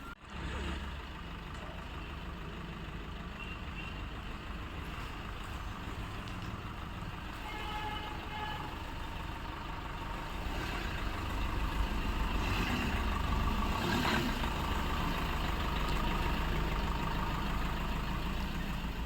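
A motor vehicle engine running with a steady low rumble, growing somewhat louder about ten seconds in.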